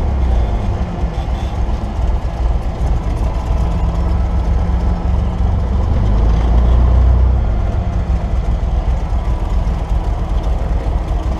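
Cessna 172's piston engine running steadily, with a brief swell in level about six to seven seconds in.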